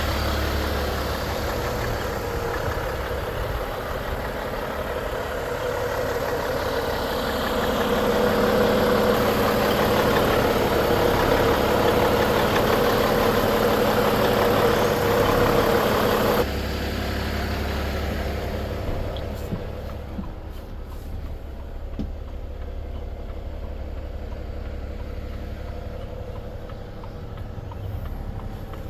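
Volvo FH 500 truck's 13-litre six-cylinder diesel engine idling steadily. About sixteen seconds in it drops suddenly to a quieter idle, with a few faint clicks a few seconds later.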